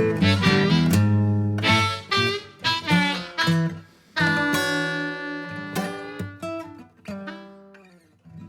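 Background music: an acoustic guitar picking notes and chords, winding down to a final ringing chord that fades out near the end.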